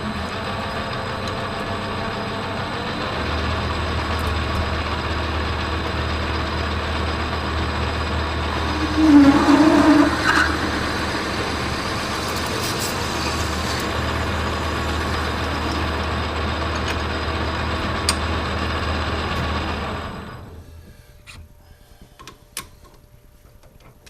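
Metal lathe running under power, its motor and gearing giving a steady hum, with a louder stretch about nine to ten seconds in; the machine then winds down and stops near the end.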